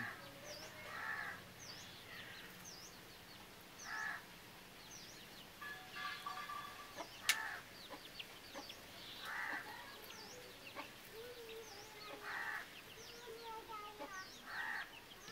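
Birds calling: a small bird chirping repeatedly, about once a second, with louder, harsher calls from larger birds every few seconds. A single sharp click comes a little past halfway.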